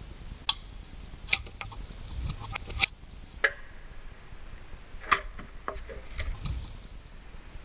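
Scattered light clicks and knocks, about seven, from objects being handled and set down.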